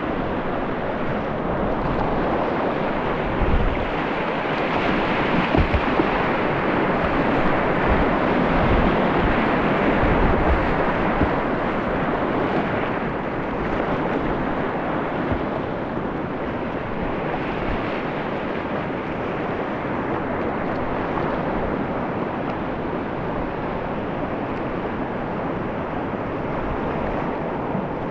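Rushing river water in a rapid, a steady roar of whitewater. Low thumps of wind buffeting the microphone come and go, mostly in the first half.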